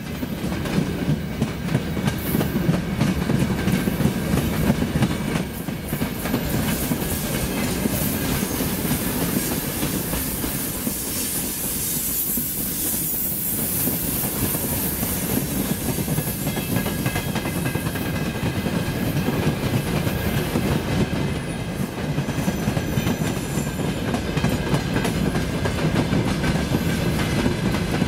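Freight train of open gondola wagons rolling past close by, a continuous rumble with the wheels clattering over the rail joints and a thin steady squeal from the wheels on the curve.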